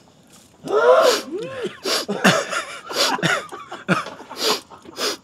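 A person's voice making short, loud vocal sounds with swooping pitch, starting about a second in and broken into many short bits.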